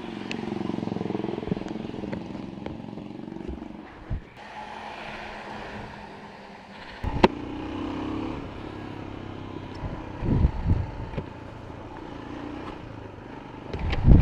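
A motorcycle running steadily in road traffic, with a sharp click about seven seconds in and a few louder bumps around ten seconds.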